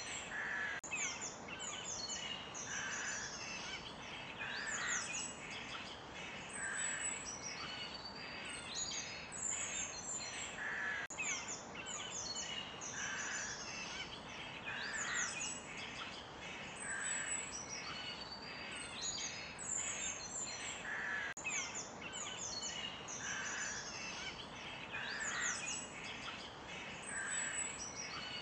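Forest birds: a dense chorus of high chirps and whistles, with a lower call repeating about every two seconds, over a steady soft hiss.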